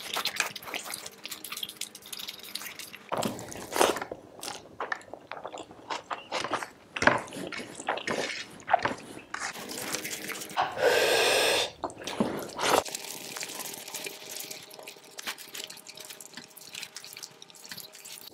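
Close-up eating sounds of rice mixed with curry eaten by hand: wet mouth clicks, lip smacks and chewing in quick irregular succession, with one louder mouth sound about a second long near the middle.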